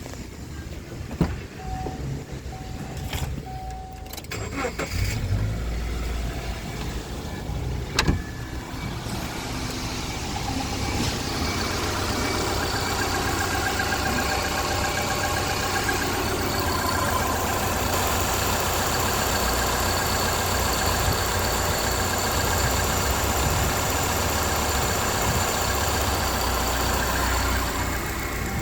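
Subaru EJ201 2.0-litre flat-four engine running, with a few sharp clicks in the first eight seconds. From about ten seconds in the revs rise and hold steady at a medium engine speed during a test run.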